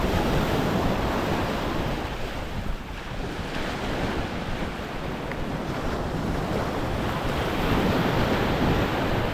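Waves washing up on a sandy beach, with wind buffeting the microphone. The surf swells just after the start and again near the end.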